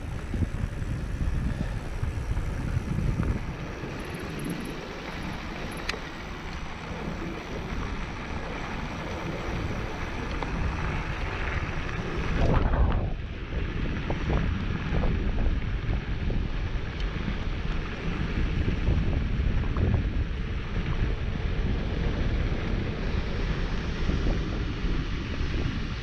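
Wind buffeting the microphone of a mountain bike rider on the move, a steady low rumble with the bike rolling along a dirt trail.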